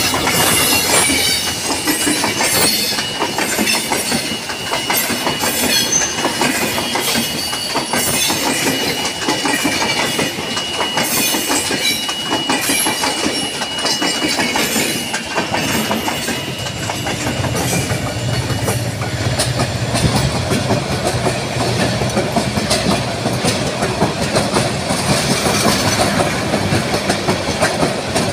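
Bangladesh Railway intercity passenger train, a diesel locomotive hauling a line of coaches, passing close by with its wheels clacking rhythmically over the rail joints. A thin high whine runs through the first two-thirds, and a low steady hum joins in for the second half.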